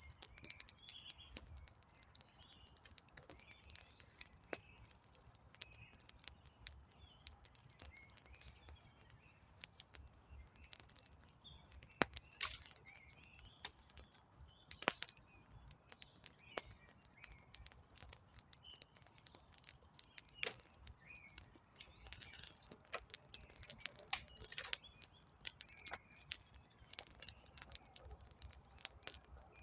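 Campfire of burning wood crackling, with irregular sharp pops and snaps, a few of them louder than the rest. Small birds chirp now and then.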